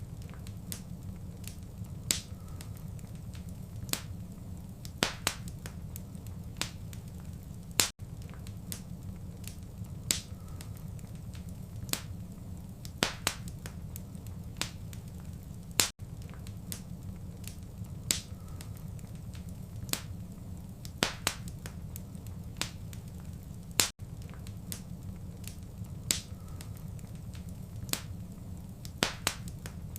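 Wood fire crackling: irregular sharp pops and snaps over a steady low rumble. The same run of pops repeats every eight seconds, as a short loop.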